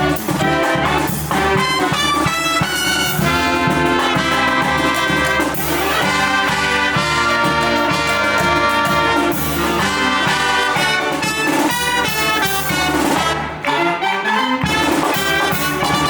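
A live brass band playing, with trumpets and trombones carrying the melody over a steady bass line; the music briefly thins out near the end.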